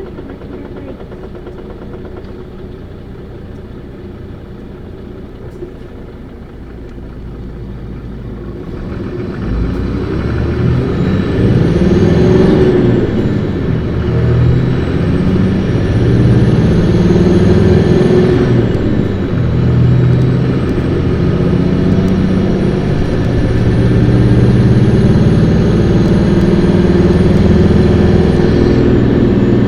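Isuzu Erga city bus (PKG-LV234Q2) diesel engine, first running quietly, then revved hard from about nine seconds in. Its pitch climbs, drops at a gear change, and climbs again twice, with a high whine rising and falling along with it.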